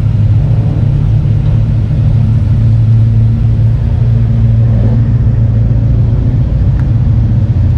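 A car engine running at a steady idle, a loud, low, even rumble.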